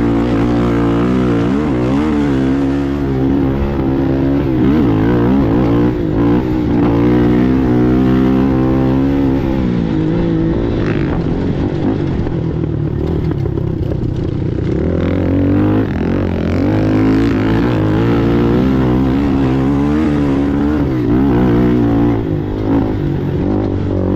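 Racing ATV engine running hard, its pitch rising and falling over and over as the throttle opens and closes, with a brief easing off about halfway through.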